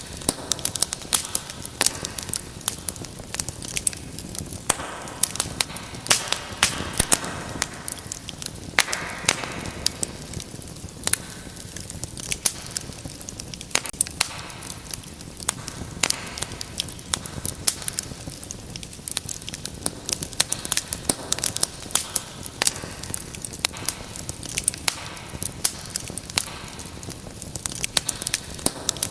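Wood fire in a fireplace crackling: frequent sharp, irregular pops and snaps over a steady soft hiss of the flames.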